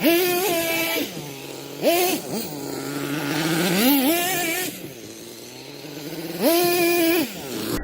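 Small nitro engine of an RC monster truck revving hard in four high-pitched bursts, each dropping back to a lower, slower note between them.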